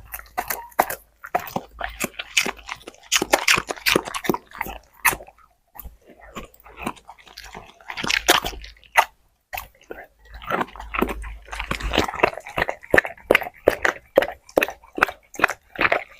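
A dog chewing and crunching food, a dense run of irregular crisp crunches with two short pauses, about six and ten seconds in.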